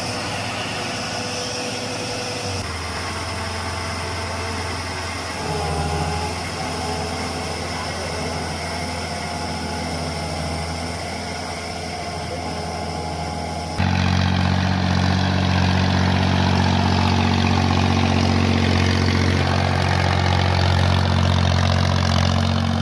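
Walking tractor engines running steadily. The sound changes abruptly twice, about three seconds in and again a little past halfway, and is louder after the second change.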